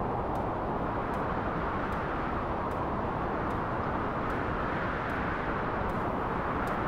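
A steady, even rumbling noise, like distant traffic or wind, with faint regular ticks about every three-quarters of a second.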